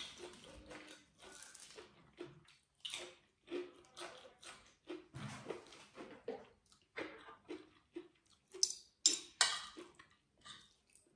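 Close-up eating sounds: chewing and wet mouth smacks at an irregular pace, about one or two a second. Near the end a few louder, sharper sounds as a spoon and fork work the food on the plate.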